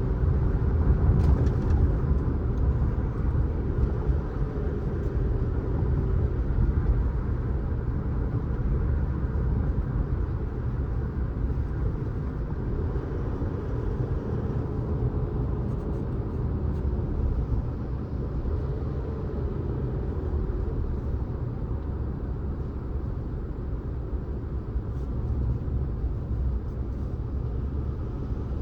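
A car driving on a road: steady low road and engine rumble, with a faint engine tone that glides up and down a few times and a level that eases slightly in the second half.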